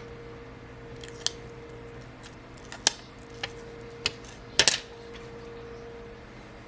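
About five short, sharp clicks and snips from small repair tools and parts being handled, the loudest pair a little past the middle, over a faint steady hum.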